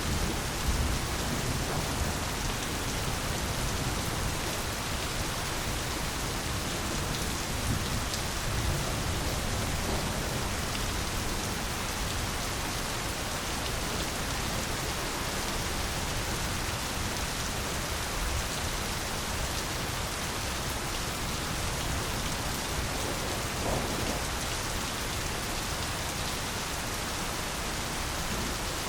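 Steady heavy rain falling on jungle foliage, a dense even hiss with scattered drop ticks and a low rumble underneath.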